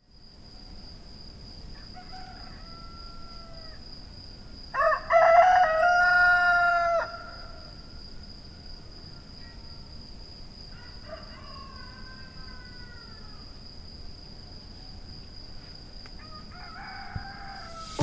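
Rooster crowing four times, each crow about two seconds long; the second crow, about five seconds in, is the loudest and nearest, and the others are fainter.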